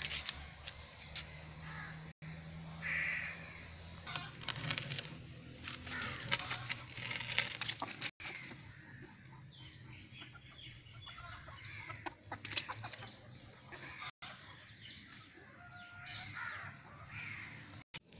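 Birds calling, with irregular clicks and rustling and a faint low hum underneath.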